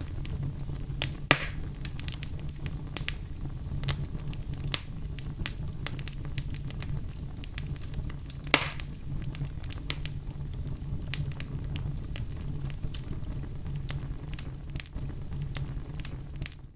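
Wood campfire crackling: scattered sharp pops and snaps over a steady low rumble of burning, with two louder pops, one about a second in and one about halfway through.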